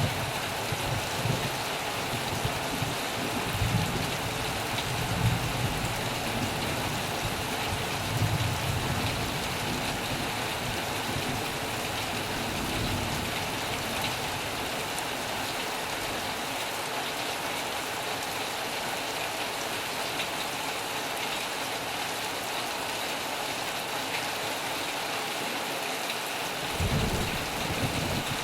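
Heavy rain falling steadily on a metal roof, an even hiss. A few short low rumbles come in the first third, and one more near the end.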